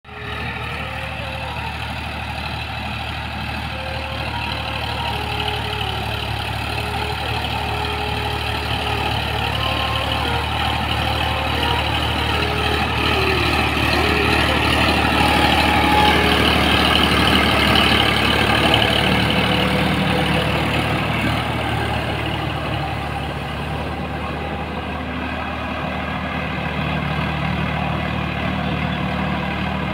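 Sonalika RX 50 4WD tractor's diesel engine running steadily under load, growing louder toward the middle and then easing off.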